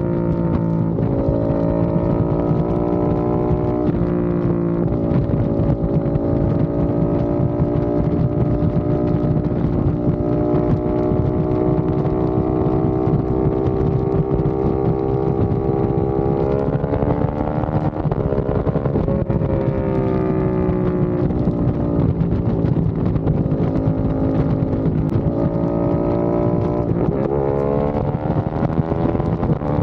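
Aprilia RS660 Factory's parallel-twin engine through a non-resonated Mivv XM-1 Evo exhaust, with a deep, bassy tone. It runs continuously, its pitch climbing slowly and then dropping back several times in the second half as the throttle changes.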